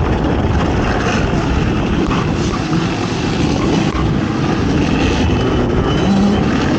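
ATV engine running hard under race load, its note rising and falling with the throttle.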